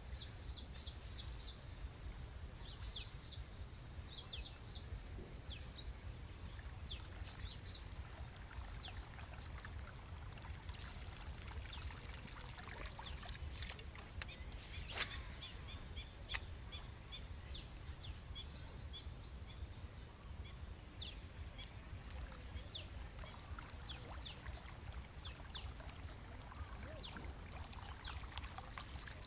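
Many short, high bird chirps scattered throughout, over a steady low rumble, with a few sharp clicks around the middle.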